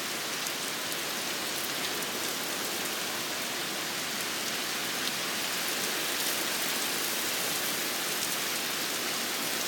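Heavy typhoon downpour: a steady, dense hiss of rain with scattered sharp hits of individual drops, growing slightly louder about halfway through.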